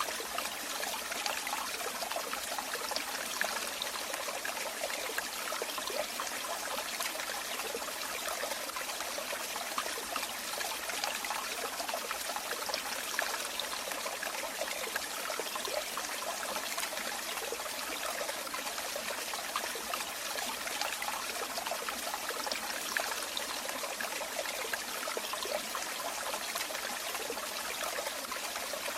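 Running water trickling and splashing steadily, a continuous bubbling flow with no breaks.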